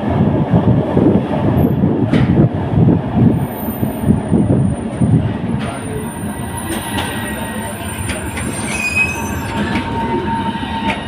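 Tram running on rails, heard from on board: a loud rumble of wheels and running gear for about six seconds, then it quietens as the tram slows and thin, high wheel squeals come in near the end, on the approach to a stop.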